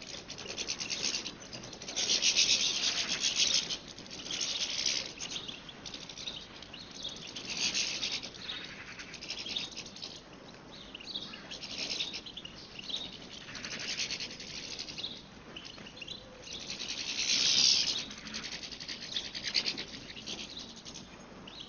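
European goldfinches twittering: bursts of fast, high tinkling twitter a second or two long, repeated every few seconds, loudest about two seconds in and again near the end.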